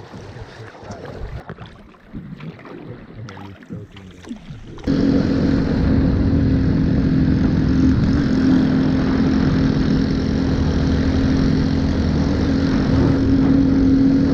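Scattered light knocks and splashing noise for about five seconds. Then, abruptly, a loud engine drone starts and runs steadily at a constant pitch to the end.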